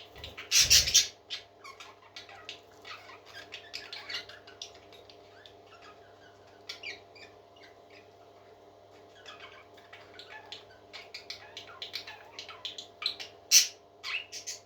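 Baby parrot chirping and squeaking in many short, high calls, with a louder burst about a second in and again near the end, over a steady low hum.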